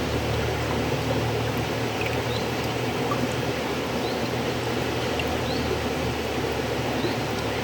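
River water flowing: a steady rushing noise that holds an even level throughout, with a few faint, short high chirps over it.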